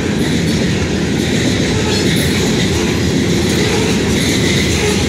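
Freight train hopper cars rolling past at close range: a steady, loud rumble of steel wheels on the rails with a clickety-clack over the joints.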